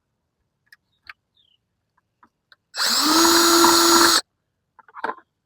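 A power drill runs once for about a second and a half, spinning up quickly to a steady pitch as it works a hole in the side of a plastic five-gallon bucket. Faint handling clicks come before and after it.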